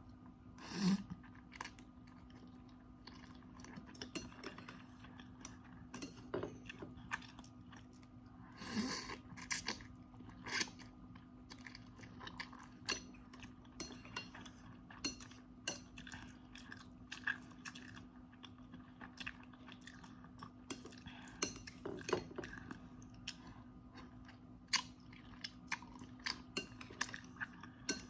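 Close-up eating sounds of instant noodles: chewing and crunching, with many short, irregular clicks of utensils against a bowl. A faint steady hum runs underneath.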